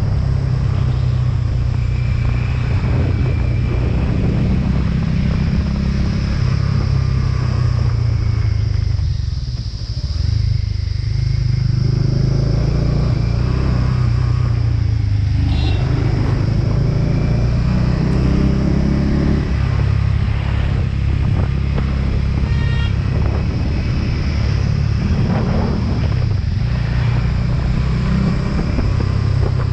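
Motorcycle engine running steadily while riding. Its level dips briefly about ten seconds in and then picks up again.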